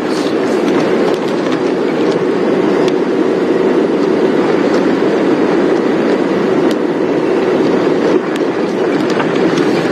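Safari game-drive vehicle driving along a dirt track: a steady engine and road noise with rattling and knocks from the vehicle body.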